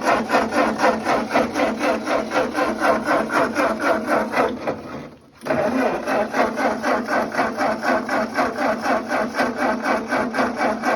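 Old gasoline Ford tractor engine being cranked by its starter, a rhythmic chug of about four compression strokes a second, in two long attempts with a short break about five seconds in. It does not fire: the engine has sat unused all summer in the rain.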